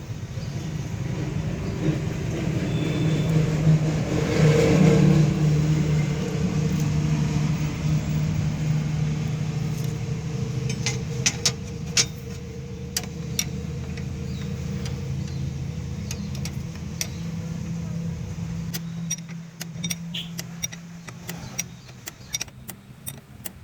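A vehicle engine running steadily, loudest about five seconds in and fading away near the end. Sharp metallic clicks and clinks, like tools on metal, come through from about halfway and grow more frequent as the engine sound dies.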